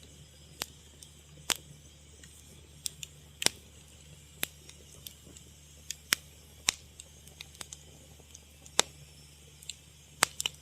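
Fire crackling: sharp, irregular pops and snaps, one or two a second, some much louder than others, over a faint low steady hum.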